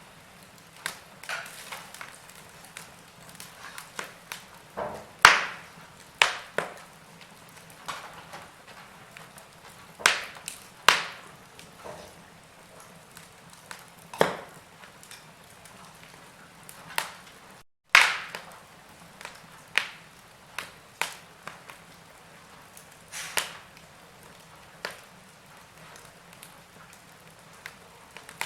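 Logs burning in a fireplace: irregular sharp crackles and pops from the wood over a faint steady hiss. The sound cuts out completely for a split second about two thirds of the way through.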